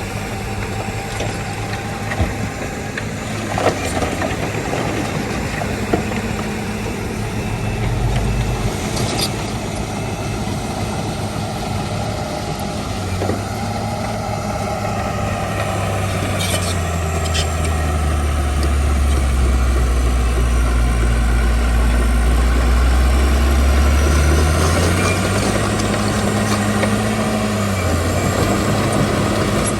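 Heavy diesel earthmoving machinery running, with a few sharp metal clanks. About halfway through the engine grows louder and deeper under load, then rises and falls in pitch near the end.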